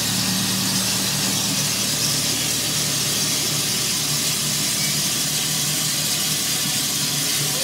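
Steady hiss of steam from a Russell steam traction engine being steamed up, with a low steady hum beneath it.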